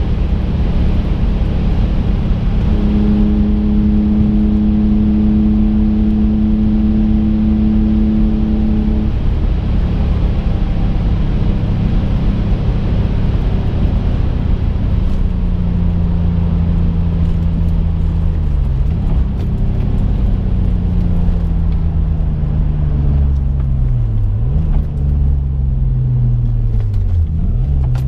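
Twin-turbocharged Infiniti G35 VQ35 V6 engine running under way, heard from inside the cabin along with road noise. The engine holds a steady note for several seconds, then its pitch falls slowly with three brief sharp dips in the second half.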